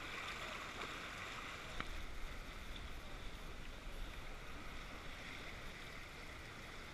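Steady rush of river water flowing around a raft, with two faint clicks about one and two seconds in.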